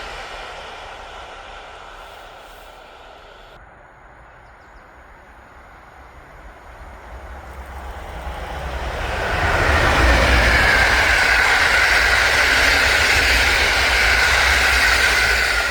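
Train on the line: rail noise fades over the first few seconds, then a train approaches and passes close and loud from about ten seconds in, a heavy rumble with a high steady whine over it, falling away at the end.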